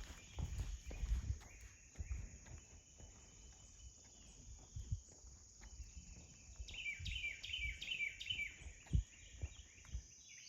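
Outdoor ambience: a steady high insect drone, with a bird calling a quick run of repeated falling chirps, about three a second, for a few seconds past the middle. Scattered low thumps come and go throughout.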